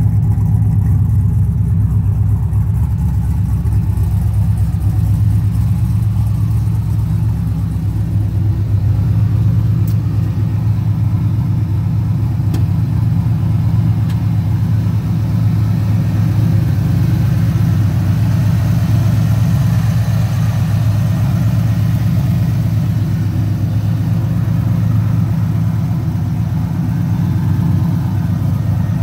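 Supercharged 6.2-litre LSA V8 of a 1972 Chevrolet El Camino idling steadily.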